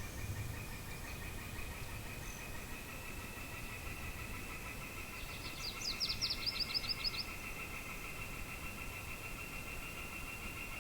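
Outdoor desert dawn ambience: a steady high pulsing trill, like insects, runs throughout over a low rumble of wind. About halfway through, a bird gives a quick run of a dozen or so rapid, sharp notes lasting about a second and a half.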